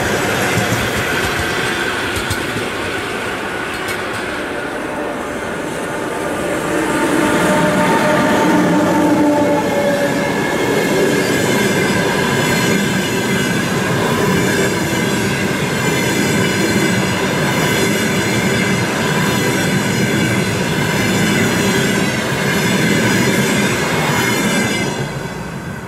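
Express passenger train hauled by a ChS2K electric locomotive passing close by: the coaches' wheels rumble and clatter over the rails with some squeal. The sound falls away near the end as the train goes by.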